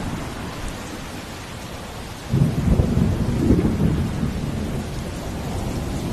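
Steady heavy rain with a deep low rumble that swells suddenly a little over two seconds in and fades over the next couple of seconds.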